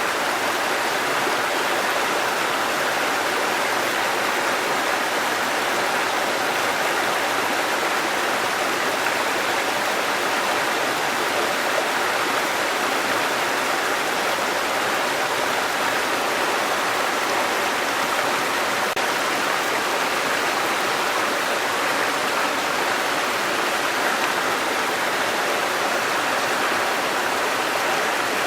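Waterfall: water falling and rushing in a steady, even roar of noise with no breaks or changes.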